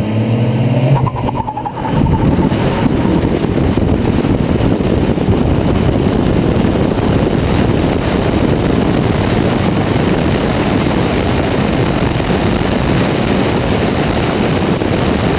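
Car engine revving hard with a rising pitch in the first second or two as the car launches, then a steady rush of wind and engine noise on an outside-mounted camera as the car runs at speed.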